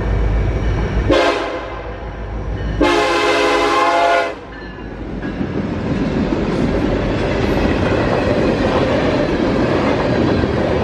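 Locomotive air horn blowing a short blast about a second in, then a longer blast that cuts off around four seconds in. The steady rumble and wheel clatter of a passing train follow.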